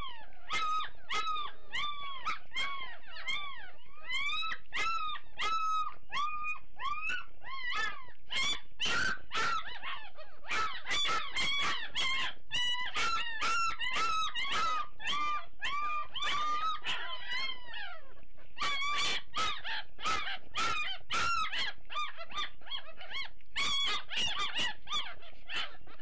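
Newborn Great Dane puppies crying and whining without pause during a feeding. Many short, arched squeals, several a second and overlapping, come from more than one pup, with scattered small clicks among them.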